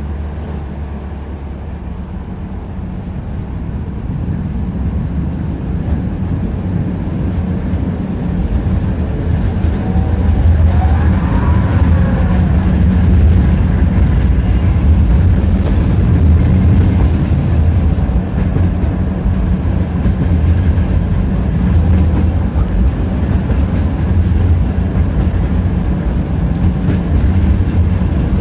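Tram running along the track: a steady low rumble of wheels on rails that grows louder over the first several seconds, with a brief whine that rises and falls in pitch around the middle.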